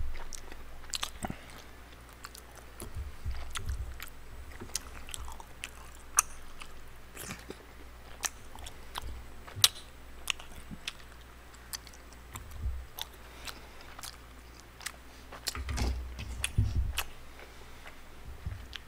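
Close-miked chewing and biting of spicy tteokbokki, with wet mouth sounds and scattered sharp clicks, and a few soft thuds.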